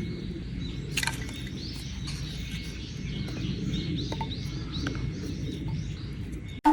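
Small birds chirping repeatedly over a low, steady rumbling background, with a few sharp clicks, the loudest about a second in. At the very end a sudden short, loud tone cuts in.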